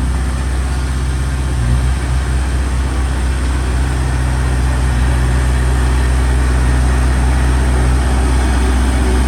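Diesel engine of a Komatsu D21P bulldozer running steadily with a low, even hum. The engine note shifts slightly about two seconds in.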